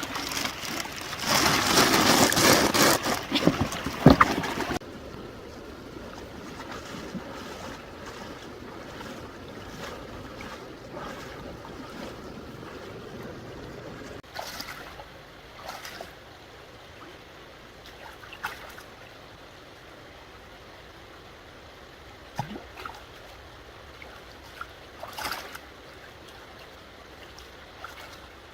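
Water splashing and sloshing loudly for the first few seconds, with one sharp knock, then cutting off suddenly. After that, a low steady sound of moving water with a few small, scattered splashes and knocks.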